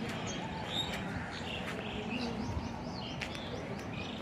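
Small birds chirping in short, scattered notes over steady background noise.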